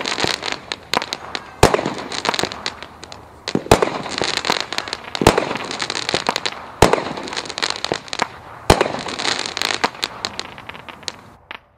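Consumer firework cake (Brothers 16-shot cake) firing: loud booming reports roughly every one and a half to two seconds, each followed by a spell of crackling.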